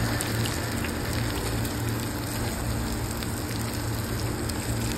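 Vegetables and spices sizzling steadily as they sauté in an open aluminium pressure cooker, with a steady low hum underneath.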